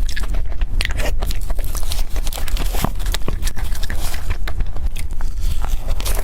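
Close-miked eating: a person biting and chewing food, with many irregular small clicks and crunches from the mouth, over a steady low hum.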